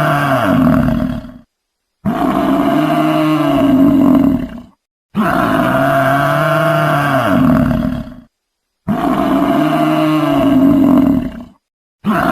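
Buffalo bellowing: the same low, drawn-out call repeated about four times, each lasting a few seconds and rising then falling in pitch, with dead silence between calls.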